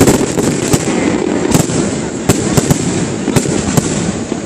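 Aerial fireworks shells bursting overhead: sharp bangs every half second to a second, several in quick succession near the start, over a steady low rumble.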